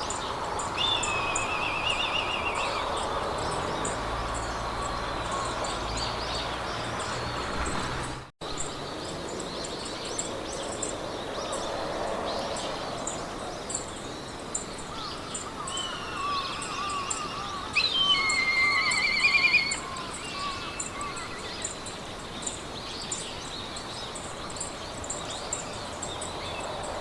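Meadow ambience: a steady hiss of wind through grass with songbirds calling and trilling. The loudest trills come near the start and about two-thirds of the way through. A fast, regular high-pitched ticking runs underneath, and the sound cuts out for a split second about eight seconds in.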